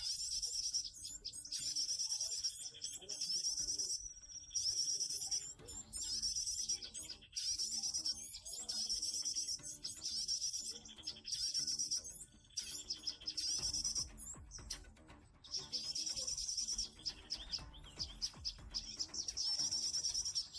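Bird song: high-pitched chirping phrases about a second long, repeating with short gaps.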